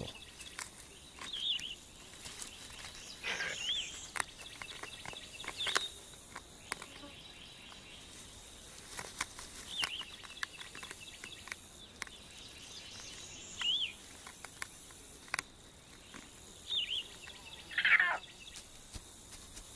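Outdoor ambience: a small bird gives a short chirp every few seconds over a faint steady insect buzz, with scattered light clicks and rustles. A louder scratchy sound comes about three seconds in, and another near the end.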